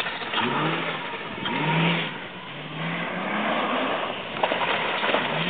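Ford Crown Victoria's V8 engine revving up again and again, its pitch climbing and levelling off in several pulls as the car drives over rough ground, with a short sharp knock about four and a half seconds in.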